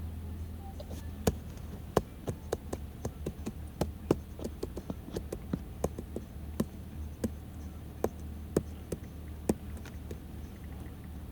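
A string of sharp, irregular taps or clicks, about two to three a second, over a steady low hum.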